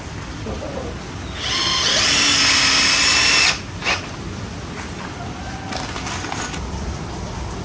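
Electric power drill running at speed with a high whine for about two seconds, starting about a second and a half in, then a short second burst just after it stops.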